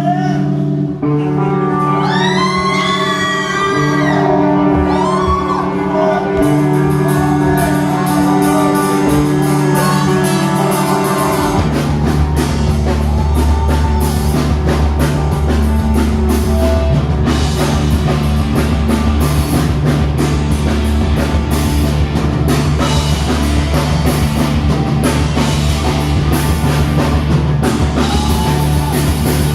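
Rock song: a slow intro of held chords with high, arching gliding melody lines, then about eleven seconds in the bass and drum kit come in and the full band plays on.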